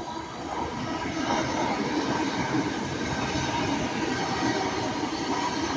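Avanti West Coast Class 805 train moving past along the platform: a steady rumble of wheels and running gear with a faint whine, swelling about a second in and then holding.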